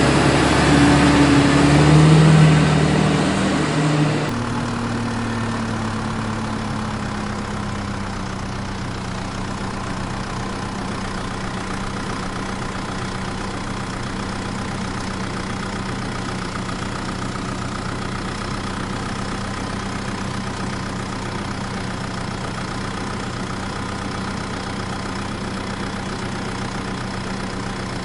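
Engine idling steadily, louder and rougher for about the first four seconds before settling into an even idle.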